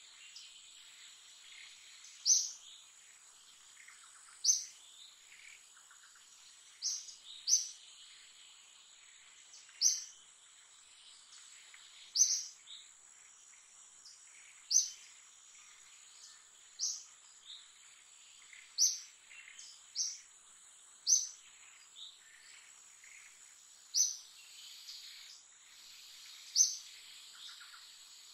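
A bird repeating a short, sharp, high-pitched call roughly every two seconds, over a steady high-pitched drone of insects.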